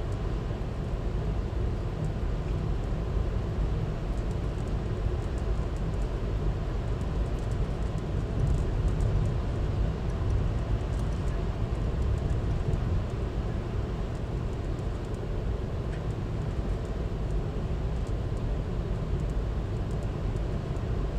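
VIA Rail passenger train under way: the steady low rumble of the moving train, with no breaks or sharp knocks.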